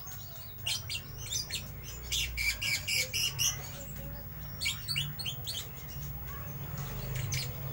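Lovebird chattering ('ngeriwik'): clusters of quick, sharp high chirps and squawks with short pauses between them, over a steady low hum.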